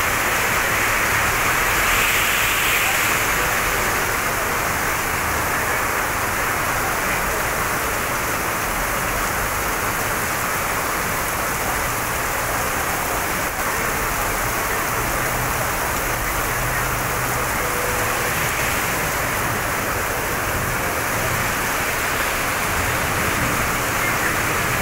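Heavy rain pouring steadily onto a wet road and ground.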